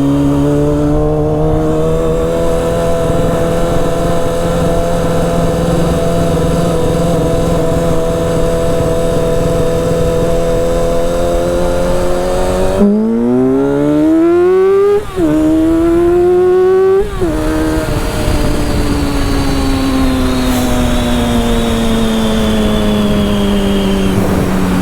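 Motorcycle engine under way: it runs at a steady pitch for about twelve seconds, then revs climb through two quick upshifts, each marked by a sudden drop in pitch, before the engine settles and slowly winds down.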